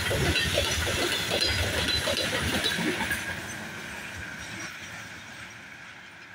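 Freight train of open gondola wagons rolling past, its wheels clattering over the rail joints over a steady hiss of rolling noise. The clatter fades away from about three seconds in as the end of the train passes and draws off.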